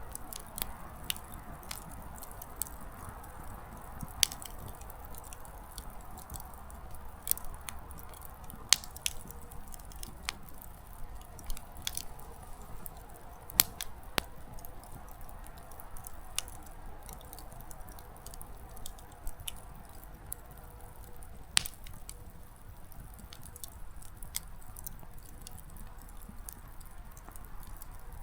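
Small wood fire crackling: firewood snapping and popping at irregular moments over a steady soft hiss, with the sharpest pops about 4, 9, 14 and 22 seconds in.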